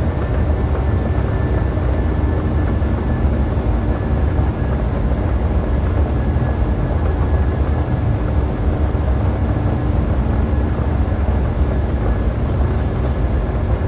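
Boeing 737 jet engines heard as a steady deep rumble, with a faint thin whine held above it.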